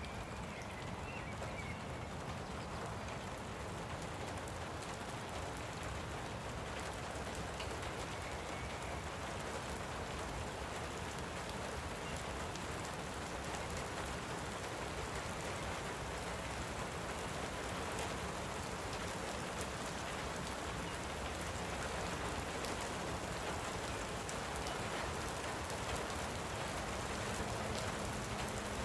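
Light rain falling steadily, an even patter with scattered single drops ticking. A bird chirps faintly a couple of times early on.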